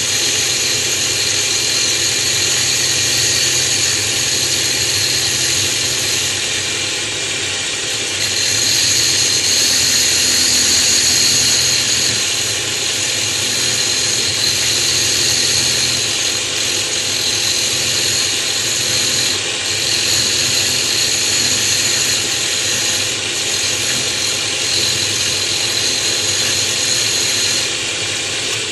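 Electric router with a bit milling a natural stone tile down to thickness, its motor running steadily with a high whine and the bit grinding against the stone, the level rising and falling slightly as it passes over the tile.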